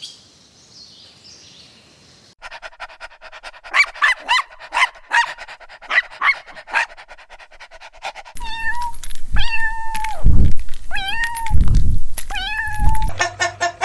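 Animal calls from several spliced clips: a run of short, quick pitched calls, then a few longer drawn-out calls that bend in pitch, with a faster repeating call pattern starting near the end.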